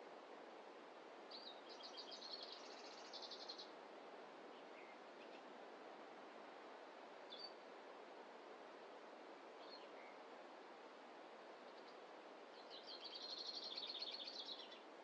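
A small songbird singing two rapid, high trills of about two seconds each, one a second or so in and one near the end, with a couple of single high chirps between them. Under it a steady soft hiss of forest ambience.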